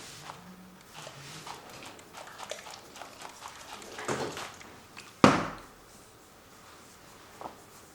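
Small handling noises at a painting studio: light scrapes and taps, then one sharp knock about five seconds in.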